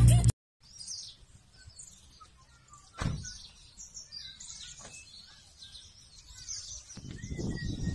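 Birds chirping and twittering, with a single thump about three seconds in and a fainter click near five seconds.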